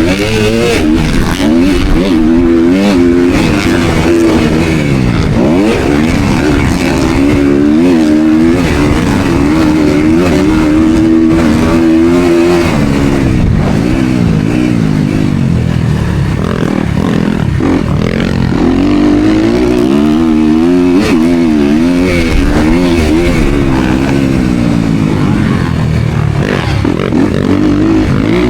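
Motocross dirt bike engine heard up close as it is ridden hard, its pitch repeatedly climbing and dropping with throttle and gear changes.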